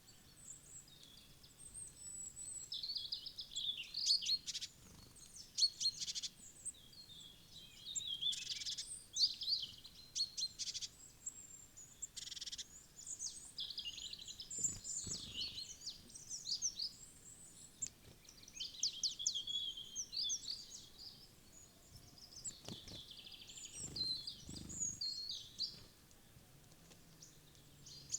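Small wild birds at a feeder chirping and calling in quick, overlapping high-pitched phrases, with a few soft knocks around the middle and near the end.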